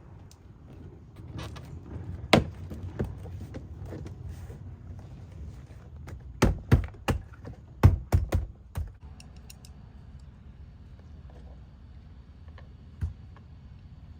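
Plastic push clips of an Acura ZDX front door panel snapping into the door as the panel is pressed on, heard as sharp clicks and knocks. A single one comes about two seconds in, most are bunched together in the middle, and a last one comes near the end.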